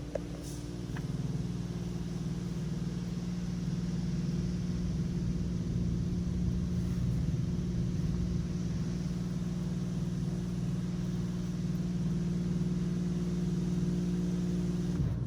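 Mark VII AquaJet XT touchless car wash machinery running with a steady low hum and a spray-like hiss, heard from inside the car.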